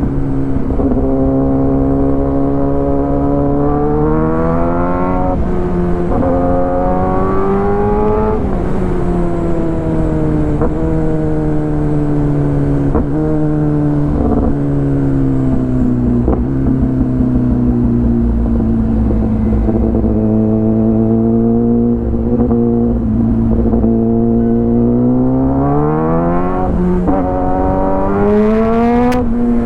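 Kawasaki ZX-10R's inline-four engine through an Arrow full-system exhaust, pulling with rising revs. The revs drop sharply at an upshift about five seconds in and climb again. Then they fall away slowly and hold at a steady low cruise, before rising again near the end.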